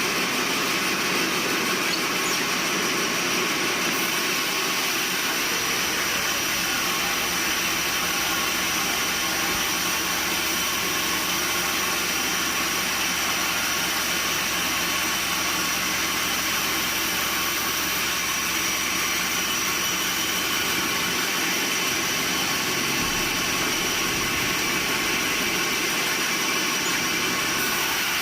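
Sawmill machinery running steadily: a constant mechanical din with a thin high whine over it.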